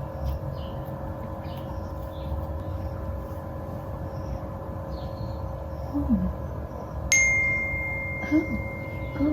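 One sharp metallic ding about seven seconds in, ringing on as a single clear tone, over a steady electrical hum.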